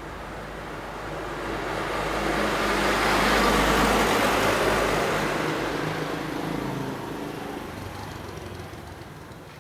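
A road vehicle passing by: its noise swells to a peak about four seconds in, then fades away.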